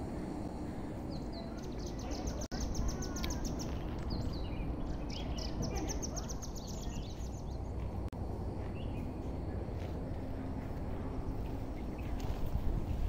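A bird sings rapid, high trilled phrases for several seconds, then falls quiet, over a steady low outdoor rumble.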